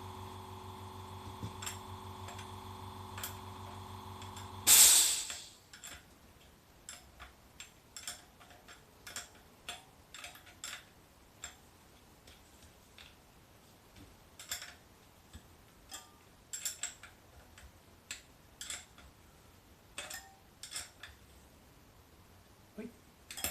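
Air compressor running with a steady hum, then shutting off about five seconds in with a short, loud hiss of released air. After it, scattered light clicks and taps of tools and parts being handled.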